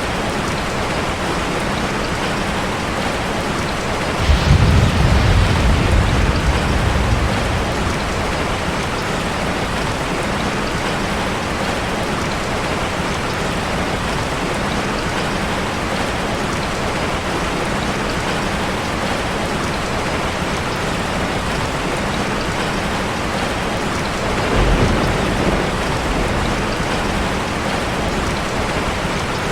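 Steady heavy rain falling on a car, with two rolls of thunder: a louder rumble starting about four seconds in and fading over a few seconds, and a shorter, weaker one near the end.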